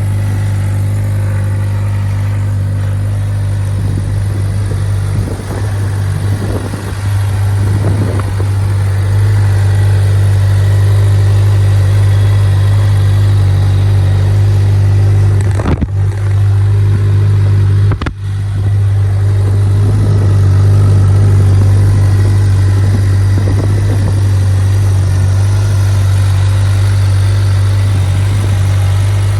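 2019 Suzuki GSX-R600's inline-four engine running steadily at idle, with a brief unsteady stretch about five seconds in and two short dips in the sound past the halfway mark.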